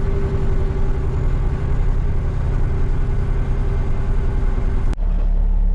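Diesel dump truck engine running, heard from inside the cab, with a steady held tone over the rumble. About five seconds in the sound cuts off abruptly and gives way to a deeper, steadier engine hum.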